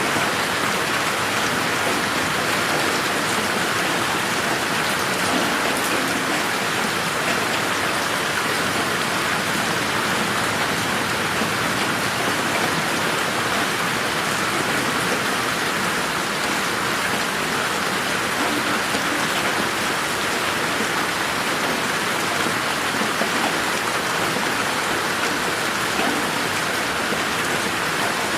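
Steady rain falling on a garden: an even hiss with scattered individual drops ticking on surfaces.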